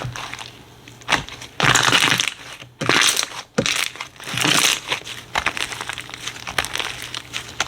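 Slime being squeezed and pressed by hand, giving a crackling, crinkling squish three times in the first half, then a run of quick small clicks and pops.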